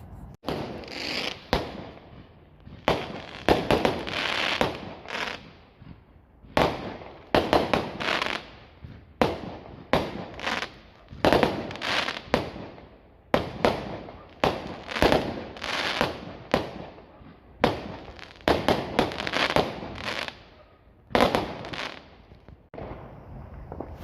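Fireworks going off in quick succession: sharp bangs, one every second or two, each trailing off in a noisy burst that sometimes holds smaller rapid pops.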